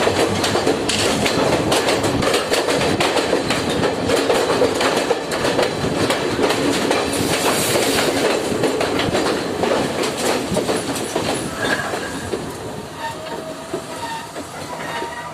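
Passenger train running along the track, its wheels clattering steadily over the rail joints with a dense rumble. Near the end it eases a little and a few faint steady tones come in.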